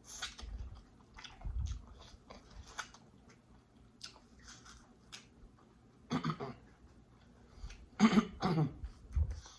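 Close-up eating sounds of a person chewing and biting into seafood-boil food, with scattered short crunches and wet clicks. Two louder throat sounds, such as a cough or throat clearing, come a little past halfway and near the end.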